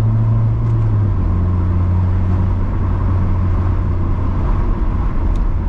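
Honda Civic EP2's 1.6-litre four-cylinder engine, breathing through an aftermarket catback exhaust, droning steadily at a constant cruising speed. Its pitch dips slightly about a second in, then holds.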